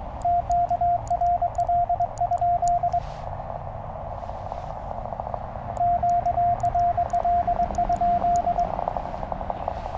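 Morse code sent on a Penntek TR-35 QRP transceiver: the rig's steady sidetone beeps in two runs of about three seconds each. Between them the receiver's band noise hisses, with faint other Morse signals in it.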